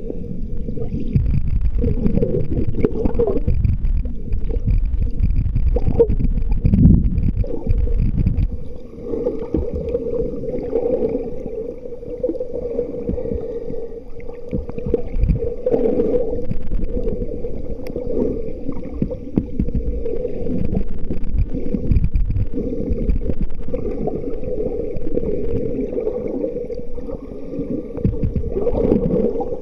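Muffled water sloshing and gurgling, with uneven low swells and a dull rumble throughout.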